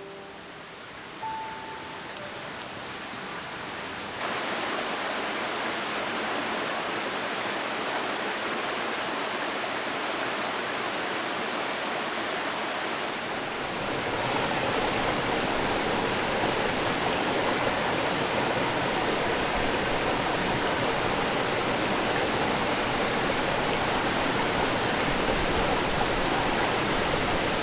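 Mountain stream rushing steadily, an even hiss of flowing water; it grows louder in two steps, about four seconds in and again halfway through.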